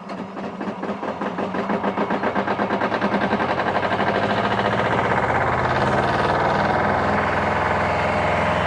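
Engine of a tow-behind welder generator starting up, its firing pulses quickening and growing louder over the first few seconds as it comes up to speed, then running steadily.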